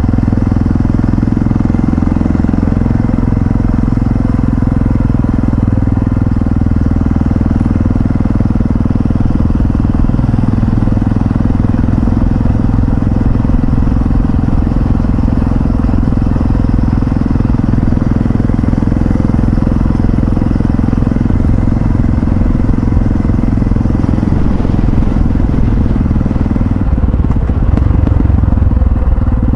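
Yamaha XT660Z Ténéré's single-cylinder engine running as the motorcycle rides along, a steady low rumble that grows a little louder near the end.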